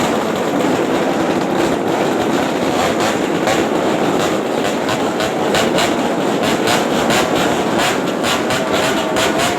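Motorcycle engine running through an aftermarket racing exhaust (knalpot racing), loud and steady, with a string of sharp crackles over the exhaust note.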